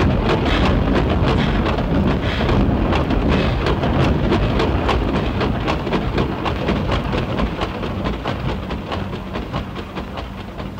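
Armored train running on the rails: a heavy, steady rumble with a rapid, regular clatter of wheels, fading gradually over the last few seconds.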